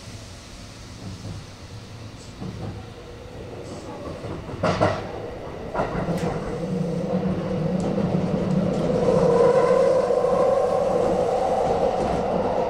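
Electric commuter train pulling away, heard from inside the carriage: a few sharp wheel knocks over rail joints about five to six seconds in, then the traction motor hum and running noise build steadily louder as it gathers speed.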